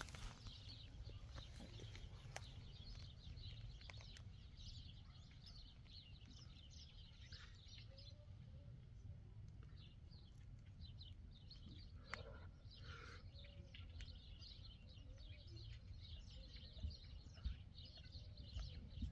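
Faint birds chirping and twittering, many short quick calls throughout, over a low steady background rumble.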